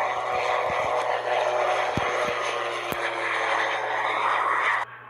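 Turbine-fitted motorcycle running with a loud, steady, jet-like roar and a few clicks. The roar cuts off suddenly near the end.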